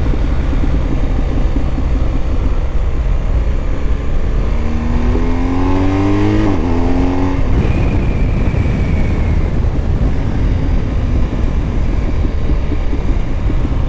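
A BMW motorcycle's engine running under way with steady wind rush, picked up from the moving bike. About five seconds in, the engine note climbs, drops at a gear change and climbs again before settling.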